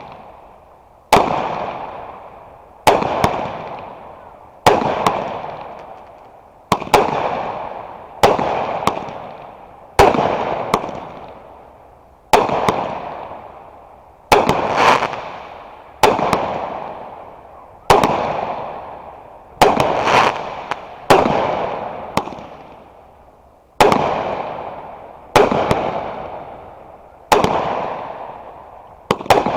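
Fireworks going off in a steady run: a sharp bang every second and a half to two seconds, sometimes two close together, each trailing off into a fading crackle.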